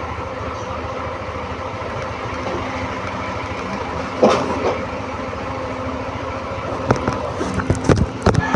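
Yamaha NMAX 155 scooter's single-cylinder engine running steadily under way. A short knock comes about four seconds in, and a cluster of them comes near the end.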